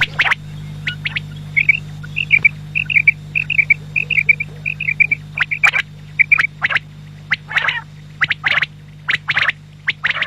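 Quail calling: runs of quick two- and three-note chirps, then a string of short, sharp calls, over a steady low hum.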